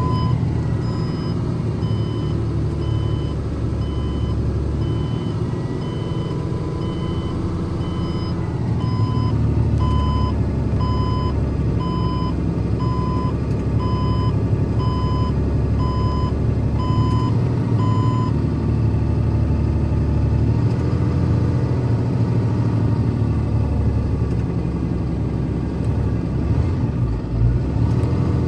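Ford F650 medium-duty truck engine running as the truck backs up, its reverse alarm beeping about once a second. The beeping stops about two-thirds of the way through and the engine keeps running.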